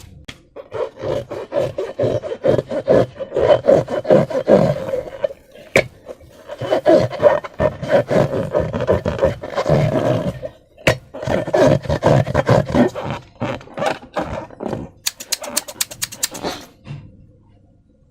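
Slime being squeezed and kneaded by hand, squelching and crackling in three long stretches with short pauses between. Near the end comes a quick run of sharp clicks, about eight a second.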